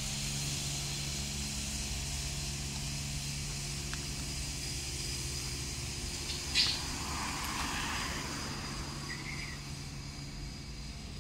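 Steady low hum of a vehicle engine idling, with outdoor background noise. There is a short high squeak about six and a half seconds in and a brief bird chirp a little after nine seconds.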